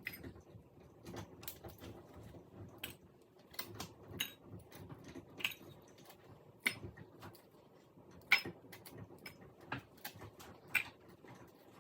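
Scattered light clicks and clinks of kitchen utensils against dishes as cooked chicken wings are moved into bowls.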